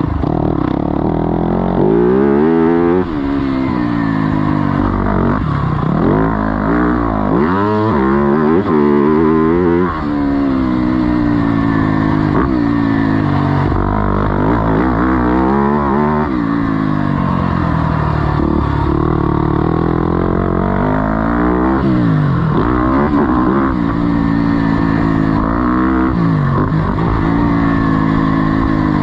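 Single-cylinder four-stroke motocross engine under hard riding, its pitch climbing and dropping again and again as the throttle is opened and closed.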